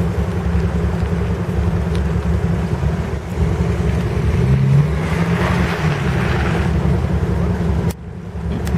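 Car engine running at low revs while the car is being parked, with a brief rise in revs about four to five seconds in, then cutting off suddenly near the end.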